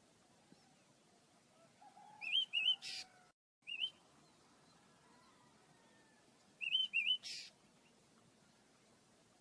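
Small pet birds chirping: a few quick, wavy high chirps followed by a short harsh call, in two bouts about four seconds apart.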